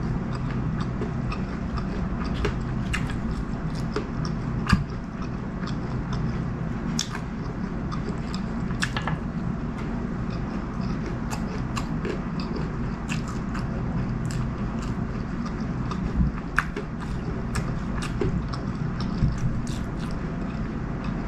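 Close-miked chewing and wet mouth clicks of someone eating chicken curry and rice, with a few louder clicks scattered through.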